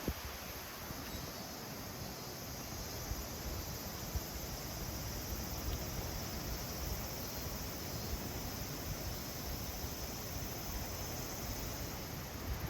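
Steady outdoor ambience: an even rushing hiss with a constant high-pitched hum above it and an uneven low rumble underneath.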